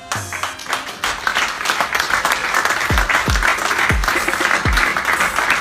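An audience applauding over loud background music. In the second half the music has four deep bass notes that drop quickly in pitch.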